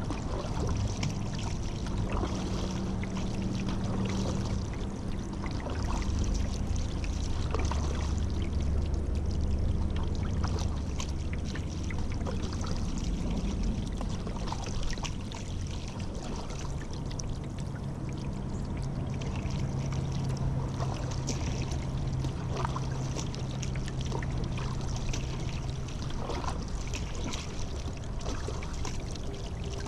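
Paddle strokes in river water: blades dipping and splashing, with water pouring and dripping off the paddle.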